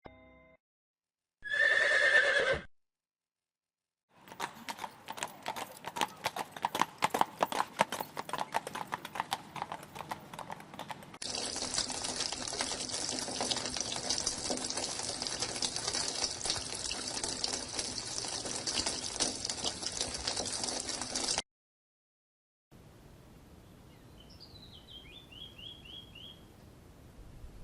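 A horse whinnies briefly, then hooves clip-clop in a quick, uneven run of clicks for several seconds. A steady hiss with high steady tones follows, and near the end a faint short series of chirps.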